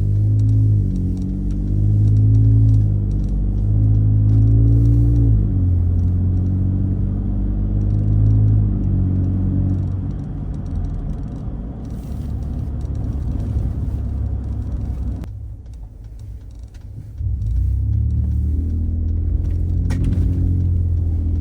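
Ford Raptor pickup with an aftermarket Roush exhaust under way, the exhaust note stepping up in pitch and dropping back several times as it pulls through the gears. Around two-thirds of the way in it goes quieter for a moment, then the engine note picks up again.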